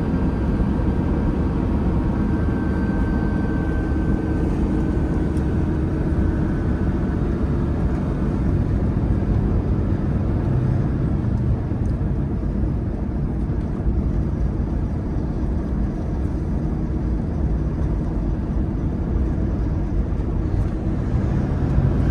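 Kenworth T680 semi-truck's engine and road noise heard inside the cab: a steady, unbroken drone.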